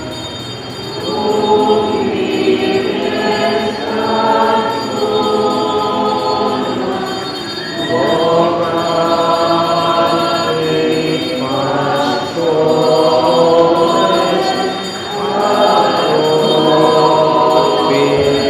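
Church choir singing a hymn with accompaniment, in long phrases of held notes that break every few seconds.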